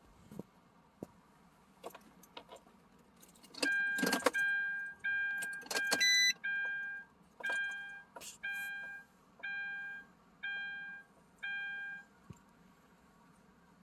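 A few rattling clicks like keys being handled, then an electronic warning chime beeping about once a second, some ten times, before stopping.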